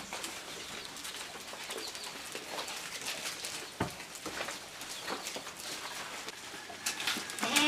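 Goats feeding on leaves: scattered rustling and snapping of foliage, with birds calling in the background. A goat begins to bleat right at the very end.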